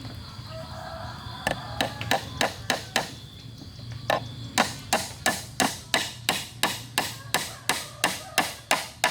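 A hammer striking wood in steady, even blows, about three a second: a short run of six, a brief pause, then a longer run of about fifteen.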